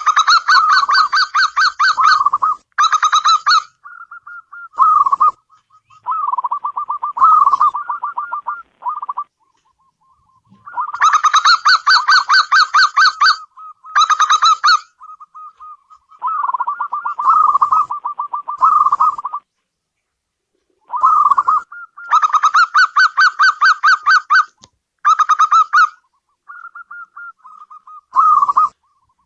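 Zebra dove (perkutut) cooing: loud phrases of rapid staccato coos, each a second or a few seconds long, repeated over and over with short pauses between them.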